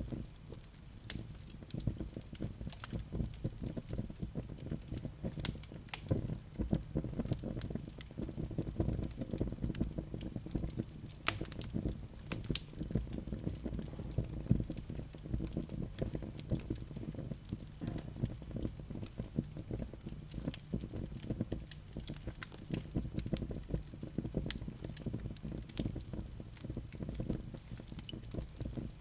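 Wood fire burning in a fireplace, with a steady low rumble of flames and frequent sharp crackles and pops from the burning logs.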